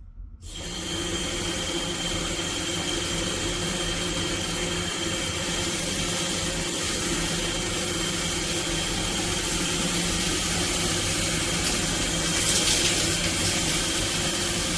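Filtered shower head spraying water: a steady rush of falling water that starts about half a second in, with a thin, steady high tone through it.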